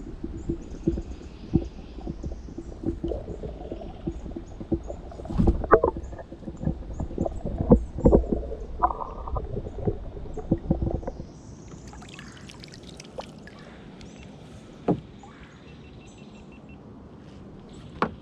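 Water sloshing and knocking around a kayak: about eleven seconds of muffled churning with many knocks and bumps, then a quieter stretch with light splashing and a few sharp knocks.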